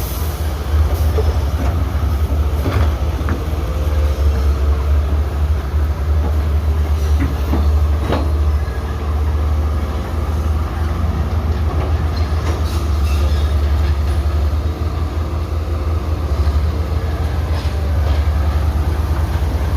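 Heavy diesel construction machinery running: a steady, loud low engine rumble, with occasional short clanks and knocks.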